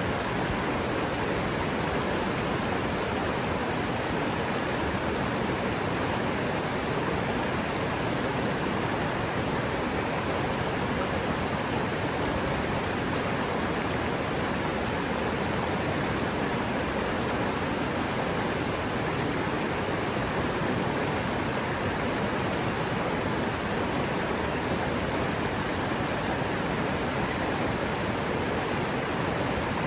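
River water running over rocks, a steady, even rush with no breaks.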